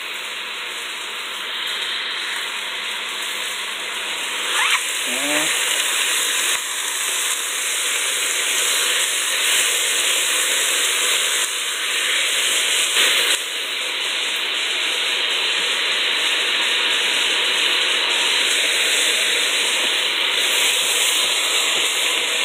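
Sliced chicken strips and butter frying in a pan, a steady sizzle that grows slightly louder over the first few seconds.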